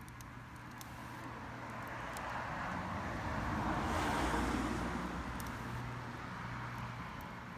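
A passing vehicle: road noise swells to its loudest about four seconds in, then fades away. Faint sharp crackles from the bonfire run underneath.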